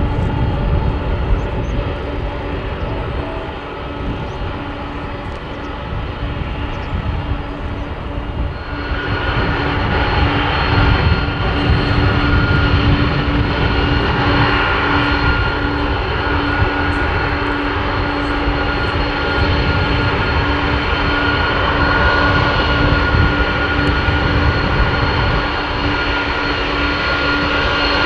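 Boeing 747-400 freighter's jet engines running: a steady whine over a deep rumble, the whine swelling louder about nine seconds in.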